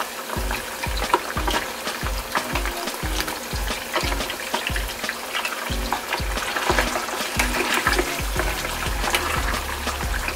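Pork slices deep-frying in hot oil in a saucepan: a continuous bubbling and crackling sizzle, with the meat being turned with metal tongs near the end. Background music with a steady beat runs underneath.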